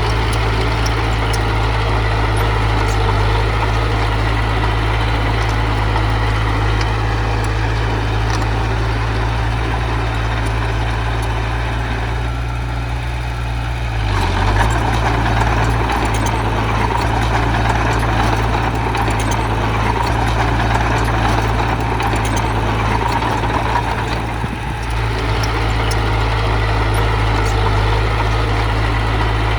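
Heavy diesel engine of earth-moving machinery running steadily at work, with a low steady drone. It swells in the middle of the stretch and eases off briefly twice.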